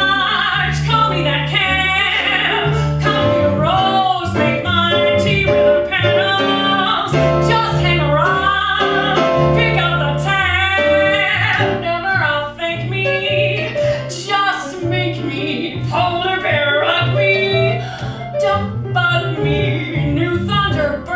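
Female jazz vocalist singing a cabaret song, backed by a small jazz band with a low bass line under her voice.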